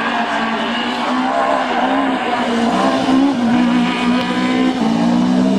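Car engine in an autoslalom run, pulling hard as the car is driven through the course, its pitch rising and falling with the throttle.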